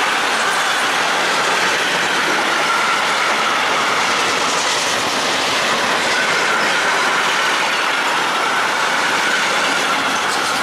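Freight train of sliding-wall covered wagons rolling past at speed: a steady, loud rumble of steel wheels on rail with clickety-clack and a thin squealing tone. The wheel noise may come from flat spots on the wheels; the observer suspects this train could be the worst case of the day.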